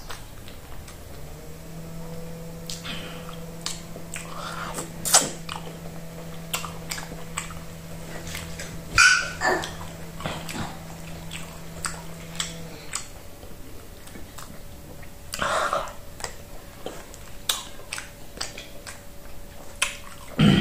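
Wet chewing and lip-smacking from eating fufu with peanut soup by hand, with scattered small clicks and a few louder smacks. A steady low hum runs underneath and stops about two-thirds of the way in.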